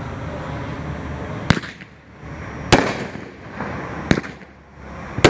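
Shogun Show of Force 500-gram fireworks cake firing its shells: four sharp, hard-hitting reports about a second apart, starting about a second and a half in, each trailing off in an echo.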